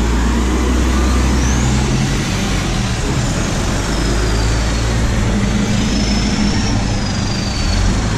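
Diesel engine of a Euro 4 truck running through an FRM racing muffler while driving, a steady low drone over heavy road and wind noise. The engine note shifts about two seconds in, and a faint high whistle glides up and down above it.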